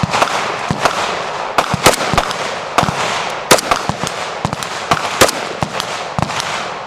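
Gunfire from several firearms at once on a busy firing line: irregular, overlapping shots, some loud and close, others fainter, with no steady rhythm.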